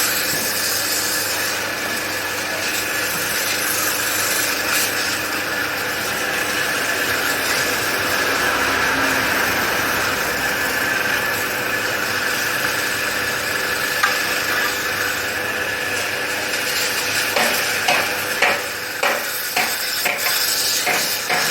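Steady hissing noise with a faint steady hum. In the last four seconds comes a quick run of about eight sharp taps or knocks.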